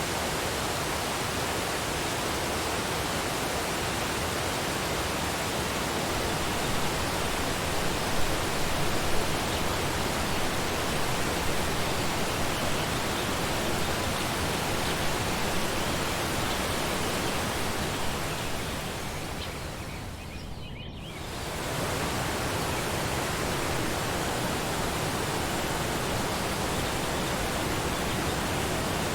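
Waterfall: a steady, dense rush of falling water. About twenty seconds in, the sound briefly thins and drops, then swells back to full.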